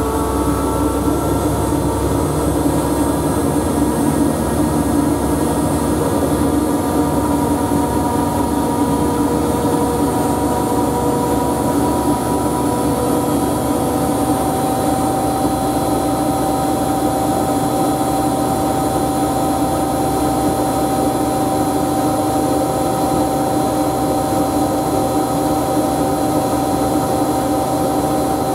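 Siemens Siwamat washing machine spinning at high speed: a steady motor whine over rushing drum noise, its pitch drifting slightly.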